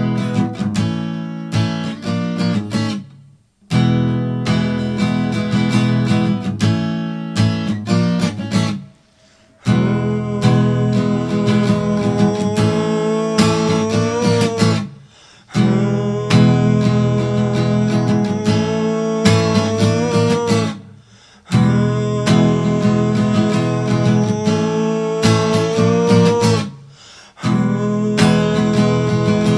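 Acoustic guitar strummed in a repeating chord pattern, stopping briefly about every six seconds. From about ten seconds in, a voice sings long, wavering held "uuuh" notes over it.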